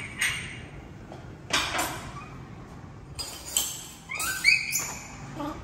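A baby macaque gives a few short, high squeaky calls near the end, among scattered knocks, clinks and rustles as it clambers over a wooden chair and a kitchen counter.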